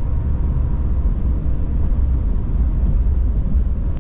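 Steady low rumble of engine and tyre noise inside the cabin of a moving vehicle driving on the road.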